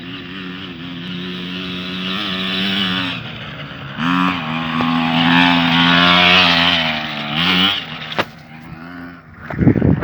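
KTM 50 mini motocross bike's small two-stroke single-cylinder engine running, then revved higher about four seconds in and held, easing off near the end.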